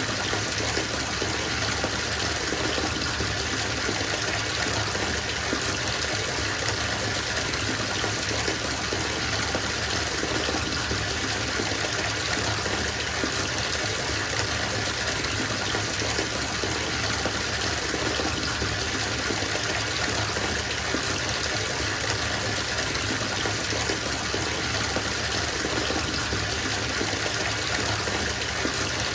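Bathtub filling: water gushing steadily from the tap into the tub.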